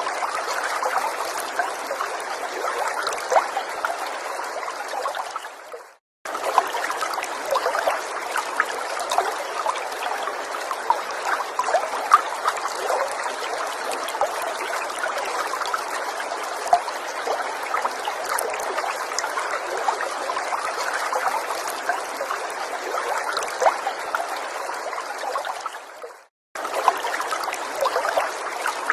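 Small stream trickling and burbling steadily over stones, with many little droplet splashes. The water sound fades out briefly and cuts back in twice, about six seconds in and again near the end.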